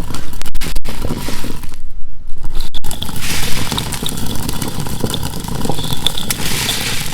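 Hand-turned stone grinder (a rotary quern) rumbling and crunching as its upper stone is turned over the lower one, cracking whole chickpeas into split chana dal.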